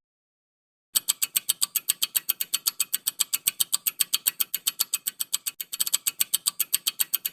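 Countdown timer sound effect: fast, even clock-like ticking, about seven ticks a second, starting about a second in.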